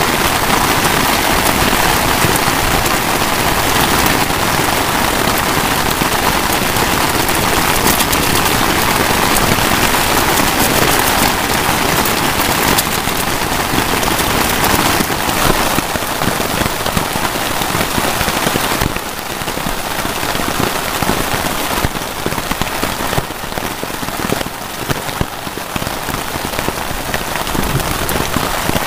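Heavy rain pattering steadily on a tarp shelter and the surrounding grass, a dense hiss of countless drops, easing slightly about two-thirds of the way in.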